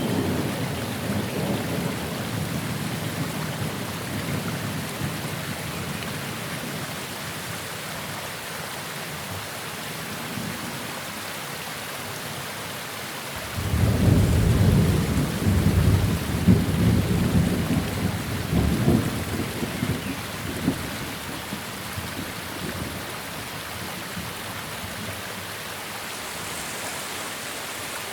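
Steady rain falling during a thunderstorm, with thunder rumbling. A low rumble at the start dies away over several seconds, then a new thunder roll breaks in suddenly about halfway and rumbles in surges for several seconds before fading back under the rain.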